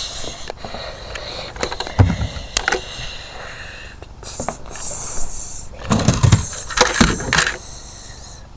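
Toys being handled and knocked about in a staged toy-train crash: scattered plastic clacks and thumps, heaviest about two seconds in and again between six and seven and a half seconds, with a high hissing rush lasting a second or so in the middle.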